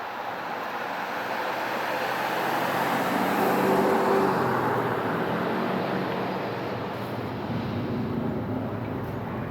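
A motor vehicle passing by: its engine and tyre noise grows louder, peaks about four seconds in, then fades away.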